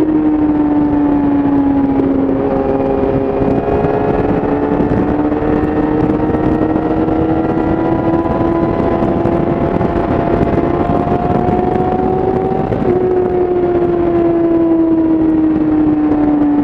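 Yamaha YZF-R6's inline-four engine through an Akrapovič exhaust, heard onboard at highway speed over wind rush. The engine note climbs slowly for about ten seconds, then falls steadily as the throttle is eased.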